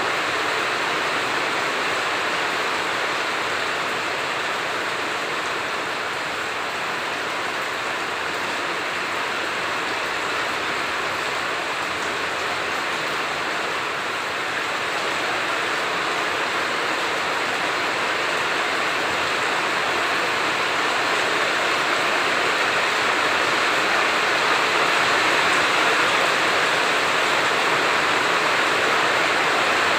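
Heavy rain falling in a steady hiss, growing a little louder in the last third.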